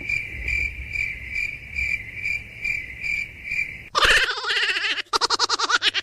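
A high chirping repeats evenly about twice a second, like insect chirps. About four seconds in it breaks off into a louder wavering animal cry that pulses rapidly.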